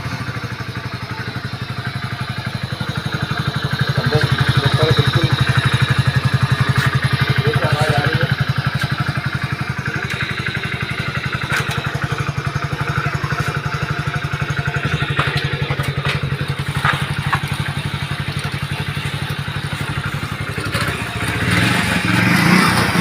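Hero HF Deluxe BS6's single-cylinder fuel-injected engine running steadily on a test start after a clutch plate replacement, getting a little louder near the end.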